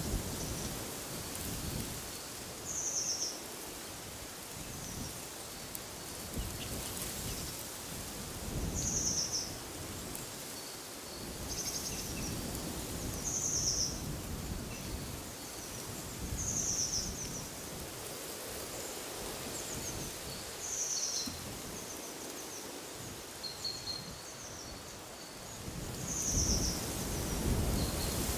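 Small birds calling outdoors: one short, high call repeats every three to four seconds, with fainter chirps between, over wind gusting in a low rumble that rises and falls.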